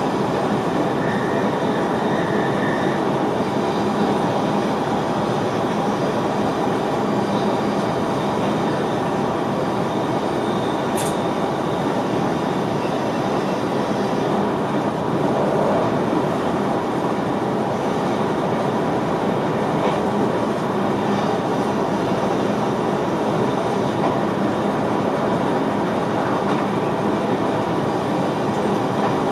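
Steady running noise of an NS VIRM double-deck electric train, heard inside the driver's cab, with one brief high tick about eleven seconds in.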